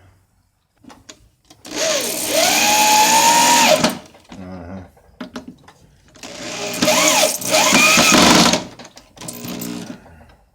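Electric drill run twice, each time for two to three seconds. Its motor whine rises as it spins up, holds, and falls away as it stops, with small clicks and knocks between the runs.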